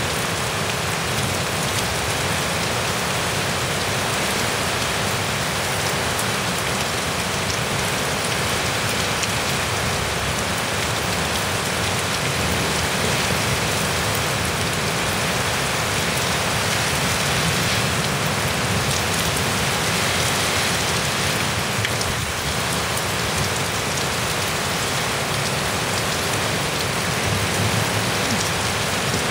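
Heavy, wind-driven rain pouring down in a severe thunderstorm: a dense, steady hiss that neither builds nor fades.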